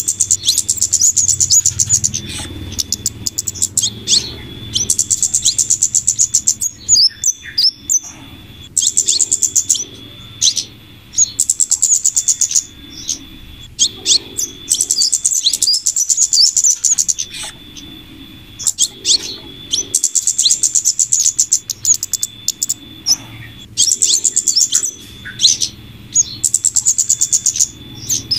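Bird-lure recording of flowerpecker calls combined with female crimson sunbird calls: rapid, high ticking chirps in bursts of a few seconds, repeating with short pauses, over a faint low hum.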